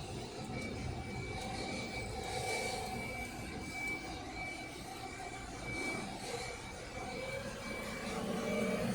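Hyundai Tucson 2.0-litre four-cylinder engine running steadily, with a thin high-pitched whine over a low rumble.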